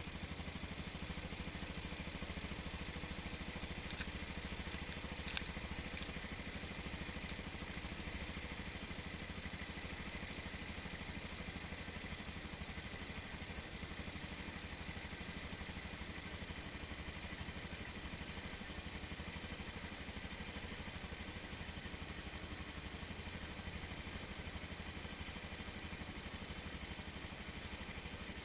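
Honda Super Cub 110 (JA44) air-cooled single-cylinder four-stroke engine idling steadily on freshly changed engine oil.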